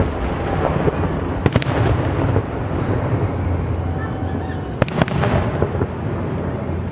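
Fireworks going off: a continuous crackling din of many small bursts, with sharp, loud bangs in pairs about a second and a half in and again about five seconds in.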